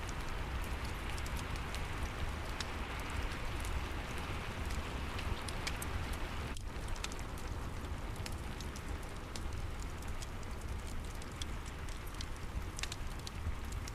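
Steady rain hiss mixed with a crackling wood fire, whose sharp pops and snaps come at irregular moments throughout.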